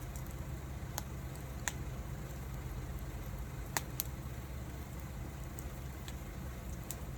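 Firewood burning in an open fire, giving a handful of sharp crackling pops at irregular moments over a low, steady rumble.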